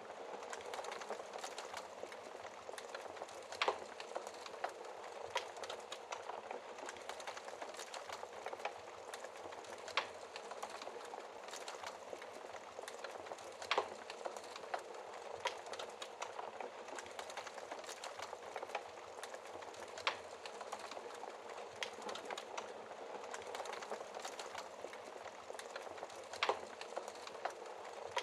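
Wood fire crackling, with sharp pops every few seconds, over a steady hiss of rain.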